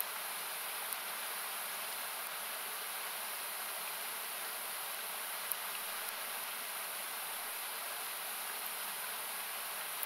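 Steady rushing of a nearby river, heard as an even hiss (partly cut with an equalizer), with a few faint pops of a wood campfire crackling.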